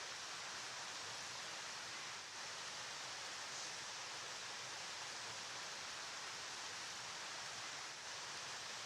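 River water flowing: a steady, even rush with no distinct splashes or changes.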